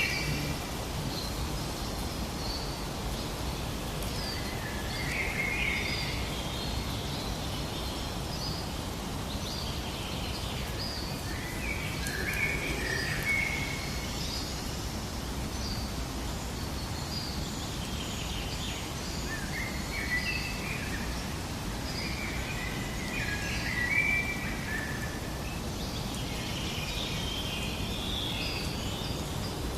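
Birds chirping and singing in short, repeated phrases over a steady background hiss of outdoor ambience.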